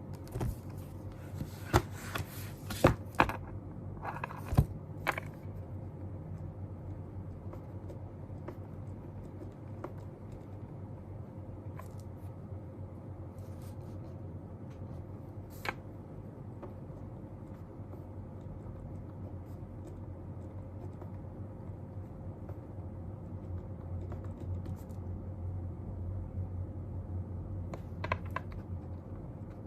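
Steady low room hum, with a quick run of small clicks and scrapes in the first few seconds and a few single clicks later, like study things being handled on a desk.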